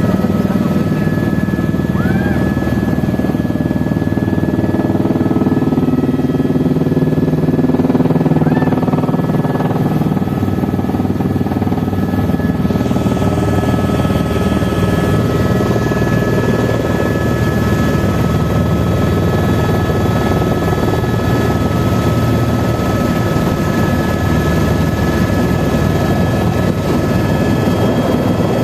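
Helicopter running steadily, its rotor and engine making a continuous loud noise with a couple of thin, steady whining tones over it. The noise takes on more hiss about thirteen seconds in.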